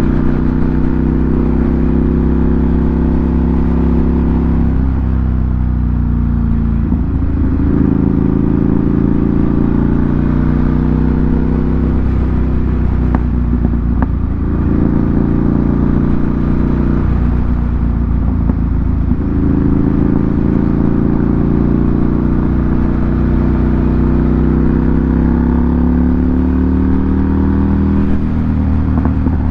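2018 Ducati Monster 797's air-cooled L-twin engine running through an SC Project aftermarket exhaust. The note holds or climbs slowly and then breaks and picks up again about every five seconds.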